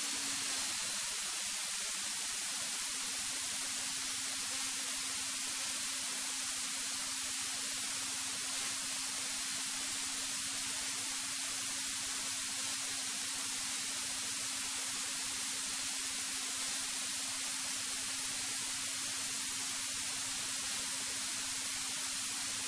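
Steady electronic hiss of an aircraft intercom audio feed, with a faint low steady hum beneath it.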